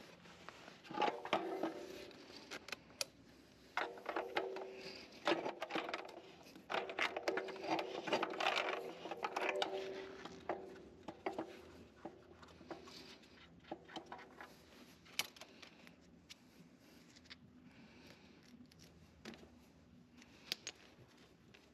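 Hand tools and parts being handled during work on a pool heater: scattered clicks and knocks, with short spells of a steady low hum in the first half, then lighter ticks.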